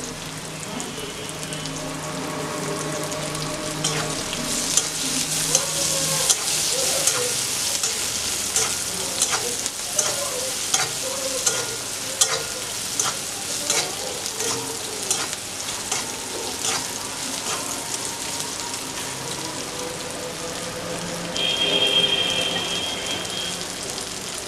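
Sliced onions and green chillies sizzling steadily in hot oil in a metal wok, with a metal spatula scraping and clicking against the pan as they are stirred through the middle stretch. A brief high steady tone sounds near the end.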